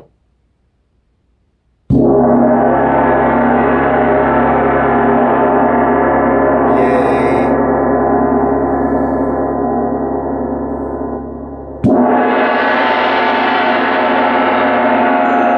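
Paiste 26-inch Sound Creation gong struck with a large gong mallet about two seconds in, giving a deep, rich tone with a wash of many overtones that rings on and slowly fades. It is struck again near the end and rings loudly once more.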